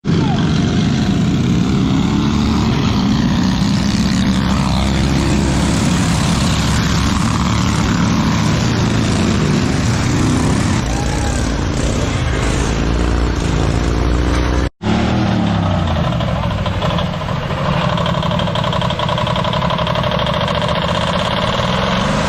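Off-road racing riding lawn mower engines running hard and revving. There is a sudden break about two-thirds of the way through, then an engine revving up and down.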